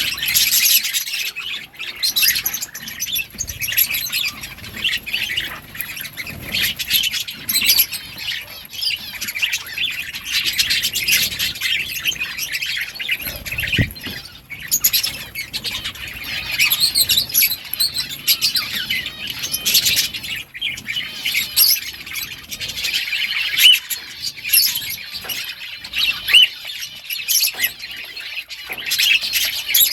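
Several budgerigars chattering and chirping at once: a continuous, overlapping stream of short high warbles, chirps and squawks.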